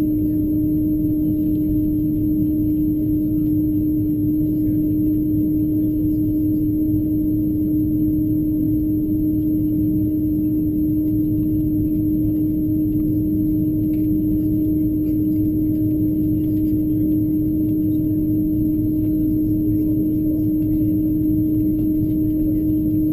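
Airbus A330-223 taxiing, heard from inside the cabin: a steady drone from its idling engines, with one strong hum tone over a low rumble that does not change.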